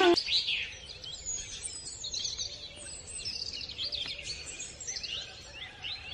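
Birds singing and chirping, many quick high calls overlapping.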